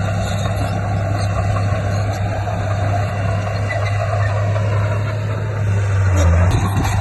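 Komatsu D58P bulldozer's diesel engine running steadily under load, a constant low drone that briefly rises and shifts about six seconds in.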